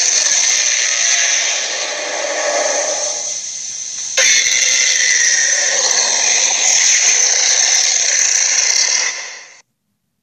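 A harsh, hissing noise used as an invented creature's sound effect, cutting in abruptly, changing sharply about four seconds in, and fading out near the end.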